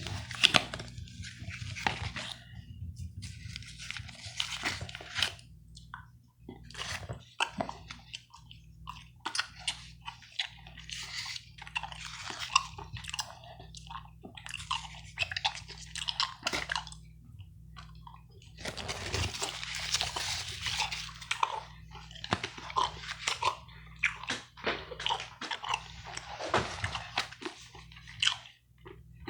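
Close-miked gum chewing with wet, crackly clicks in irregular bursts, mixed with playing cards being handled and shuffled. A denser, louder crackle runs for about two seconds a little past the middle.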